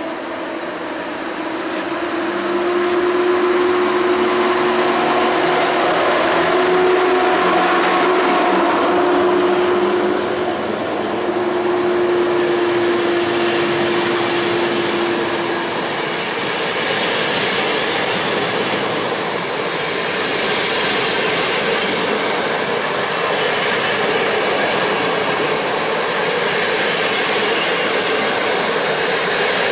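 PKP EP07 electric locomotive hauling a passenger train past, with a steady tone from the locomotive as it draws alongside. About halfway through the tone fades and the coaches' wheels take over with a steady rolling rumble.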